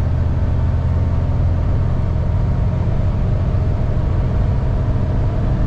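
Isuzu cab-over box truck's engine and road noise heard inside the cab, a steady low drone while it rolls downhill gathering speed.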